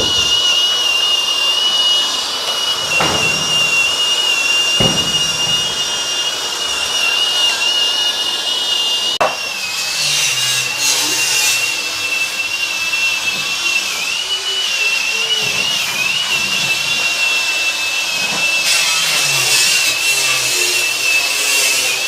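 A power tool running continuously with a steady high-pitched whine, cutting through the old garage door framework.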